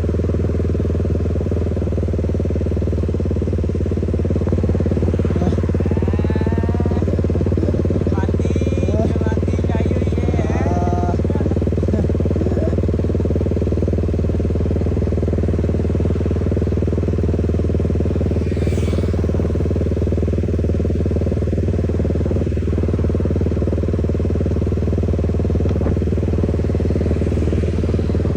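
Motorcycle engine and exhaust running at steady revs, giving a constant low drone with no revving.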